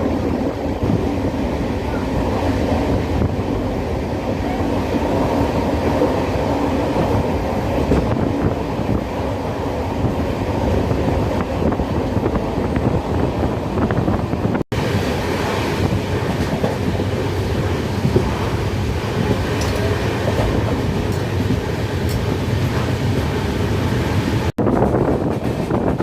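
Passenger train running at speed, a steady rumble of wheels on the rails. The sound cuts out completely for an instant twice, about 15 seconds in and near the end.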